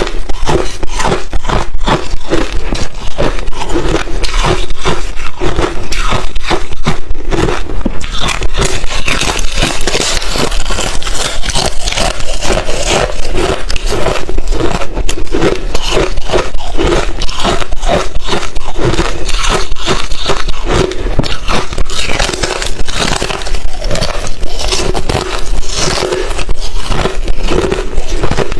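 Crushed, thin refrozen ice chips being bitten and chewed: a loud, continuous run of rapid crisp cracks and crunches.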